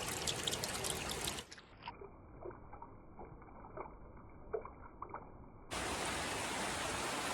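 Heavy rain splashing, which gives way about a second and a half in to a muffled, dull stretch with a few scattered drips. A steady downpour comes back abruptly near the end.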